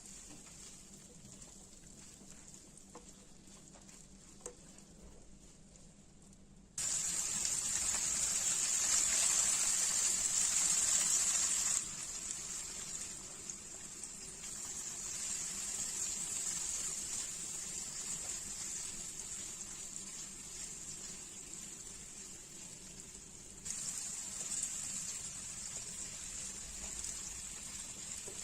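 Potatoes frying in hot oil, a steady sizzle that starts abruptly about seven seconds in. It is loudest for about five seconds, then settles lower and rises again near the end.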